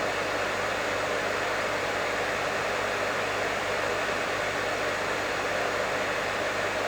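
Professional hair dryer running steadily: an even rushing of blown air over a low motor hum, with no change in speed.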